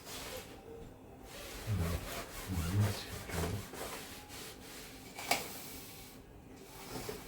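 Scratchy rubbing and scraping of something being handled and rubbed by hand, with one sharp knock about five seconds in.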